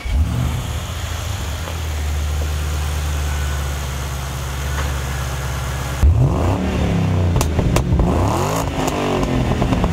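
Supercharged V8 of a 2007 Roush Stage 3 Mustang starting and idling steadily. From about six seconds in it is revved several times, its pitch rising and falling with each blip.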